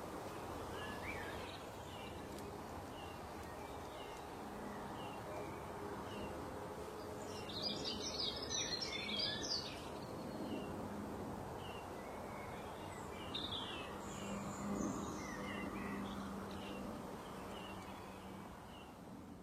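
Outdoor ambience: a steady background hiss with birds chirping, one short high chirp repeating about once a second and a louder burst of song about eight seconds in.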